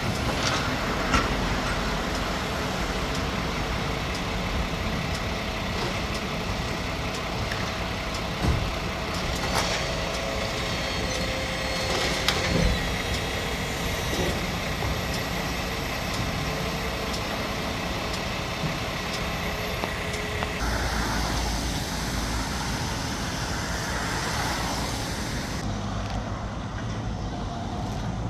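Heavy machinery engines running steadily, with a few sharp knocks of debris, typical of demolition work; the sound changes abruptly about two-thirds of the way in and again near the end.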